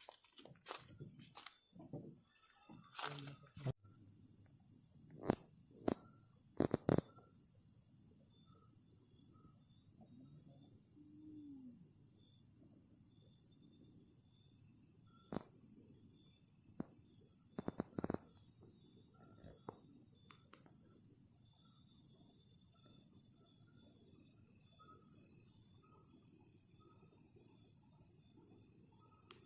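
Night chorus of rainforest insects, a steady high shrill with fainter repeated chirps beneath it. Scattered sharp clicks and knocks come through, mostly in the first several seconds.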